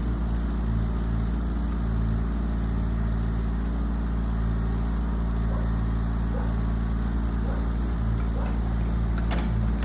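Yanmar ViO17 mini excavator's diesel engine running steadily, with a brief click about nine seconds in.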